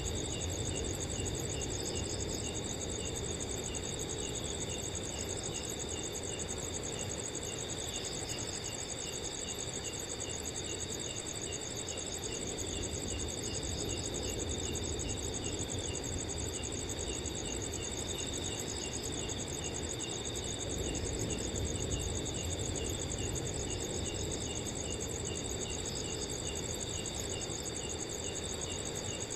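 A chorus of crickets: several steady high trills at different pitches, with one cricket chirping at an even pace over them, and a low, steady rush of wind underneath.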